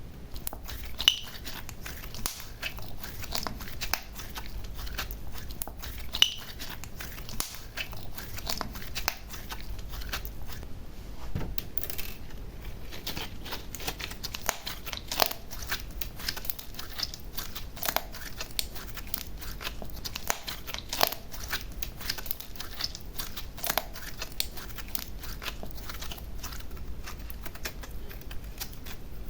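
Slime being worked by hand: steady sticky crackling and clicking, with an occasional louder pop.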